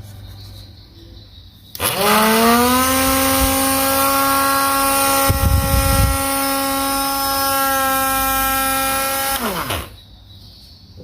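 Small battery-powered DC motor switched on, spinning up to speed with a quickly rising whine, running steadily at one pitch for about seven and a half seconds, then switched off and winding down with a falling whine. A brief low rumble comes partway through.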